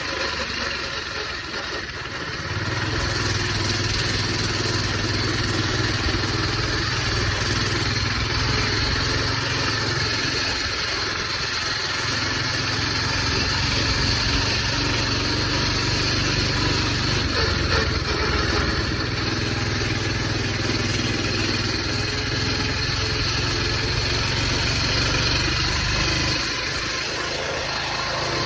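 Coleman BT200X minibike's small single-cylinder four-stroke engine running steadily as the bike is ridden, the engine note dropping briefly about two seconds in and again near the end.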